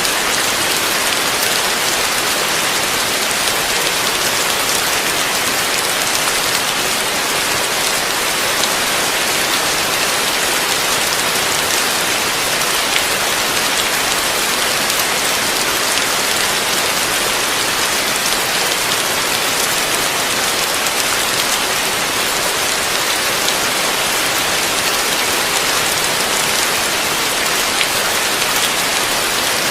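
Super heavy rain falling steadily: a dense, even hiss with faint ticks of single drops scattered through it.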